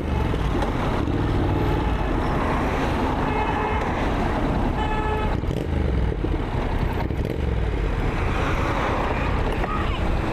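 Steady road-traffic and engine rumble, with two short horn toots: one about three seconds in and a briefer one about five seconds in.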